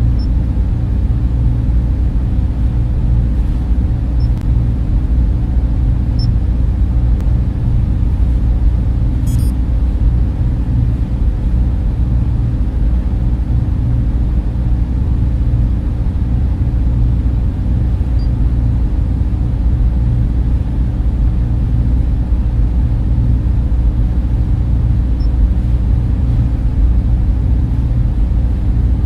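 Server room cooling fans running steadily: a constant, low-heavy rumble with a steady hum underneath.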